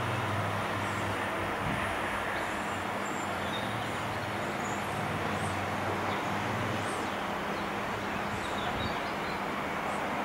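Intercity train hauled by an E464 electric locomotive pulling away: a steady rumble of the moving train with a low hum that stops about seven seconds in. Faint short high chirps sound above it.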